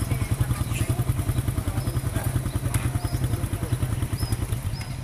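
Motorcycle engine idling with a steady, rapid, even putter.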